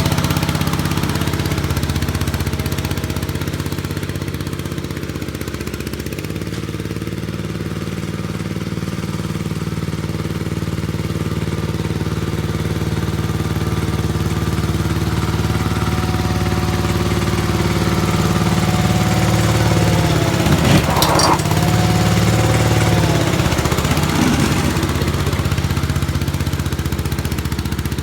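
Gravely walk-behind tractor engine running steadily. About three quarters of the way through, its pitch sags and recovers twice, with a brief clatter at the first dip.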